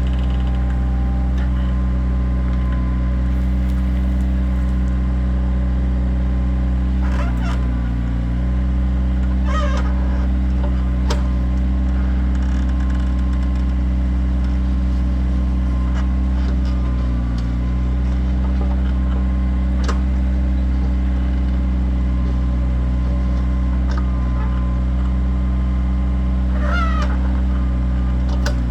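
Kioti tractor's diesel engine running steadily, dipping briefly twice as if loaded. A few sharp clicks and knocks are scattered over it.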